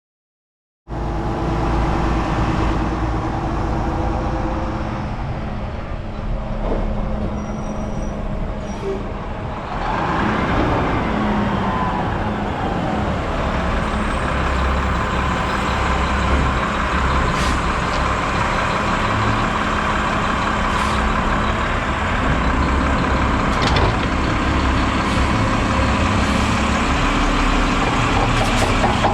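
Automated garbage truck's engine and hydraulics running steadily, the engine note rising and falling about ten seconds in, with a few sharp knocks in the second half.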